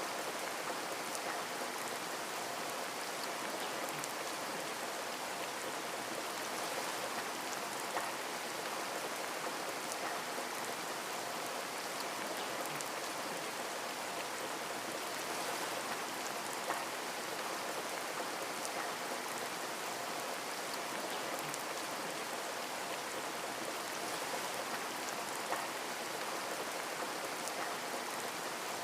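Steady rush of running water, with a few faint small splashes or drips.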